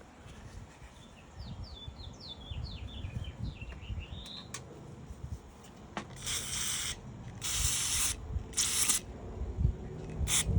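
An aerosol can of carburetor cleaner hissing in four short sprays, the longest about a second, through the second half. Earlier a small bird chirps a quick run of falling notes.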